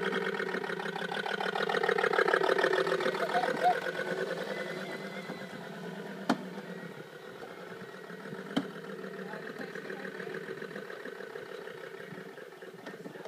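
Simulated Land Rover Series 1 engine sound from a Toylander ride-on car's sound unit, playing a start-up that swells after a couple of seconds and then settles to an even idle. Two sharp clicks come partway through.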